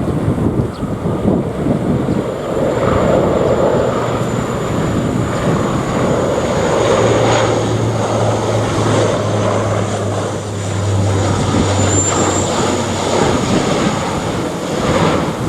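Airliner passing low overhead on approach to land, its engines running loud and steady with a thin high whine, and strong wind buffeting the microphone.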